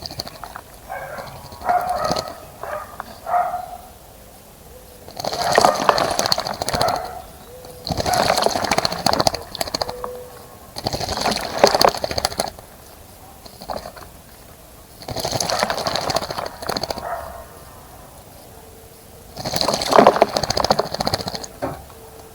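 A bird bathing, splashing water with rapid wing-fluttering in five bursts of about one and a half to two seconds each, with short pauses between.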